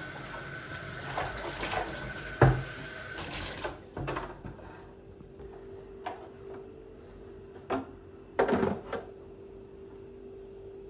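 Household handling sounds: a steady rush like running tap water for about four seconds, with one loud knock partway through, then a low steady hum with a few scattered clicks and knocks.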